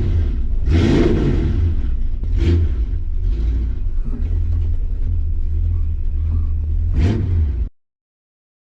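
1965 Mustang's 302 V8 running with a steady low rumble and a few short rises in level, as when the throttle is blipped. The driver's side header gasket is leaking exhaust. The sound cuts off suddenly near the end.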